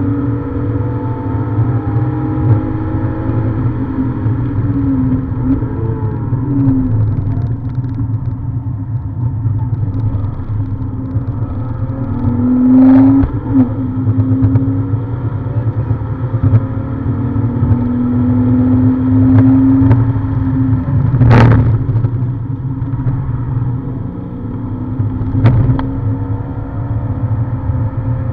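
BMW E46's 3.0-litre straight-six engine heard from inside the cabin on a track lap. Its revs climb and drop again and again through gear changes and corners, over steady road and wind noise. Three sharp knocks are heard along the way, the loudest about twenty-one seconds in.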